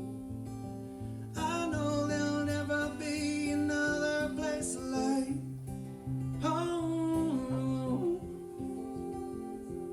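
Acoustic guitar played as a song's outro, with a voice singing two long held lines over it without clear words, one about a second in and one past the middle.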